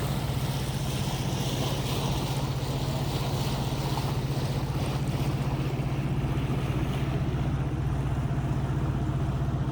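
A sailboat's motor running steadily as the boat motors slowly along a river, a constant low hum with a steady hiss of water and wind over it.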